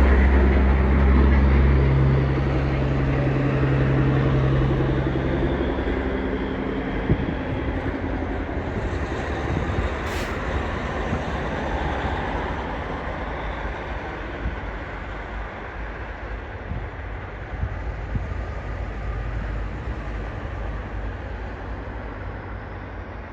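Tractor-trailer passing, its diesel engine hum loud at first, then dying away over the first few seconds. Engine and tyre noise fade steadily as the rig drives off.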